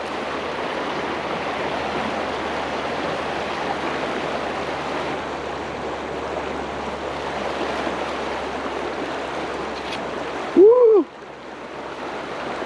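Fast river current rushing steadily, an even wash of flowing water that drops away abruptly near the end.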